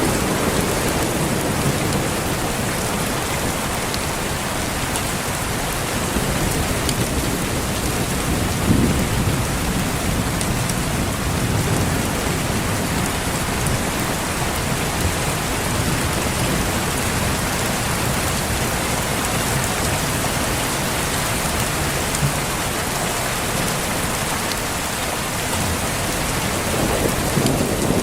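Steady heavy rain falling and pattering on surfaces, with low rolls of thunder swelling at the start, about nine seconds in, and again near the end.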